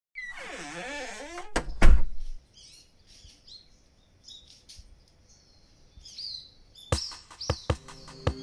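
Starlings calling: a wavering whistled call for the first second and a half, then scattered high chirps. Two loud knocks come about two seconds in, and a run of sharp clicks near the end.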